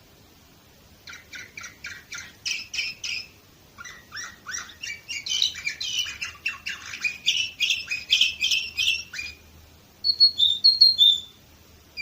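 Domestic canary singing: runs of rapidly repeated trilled notes, with a brief pause partway through. Near the end come a few louder, short, high whistled notes.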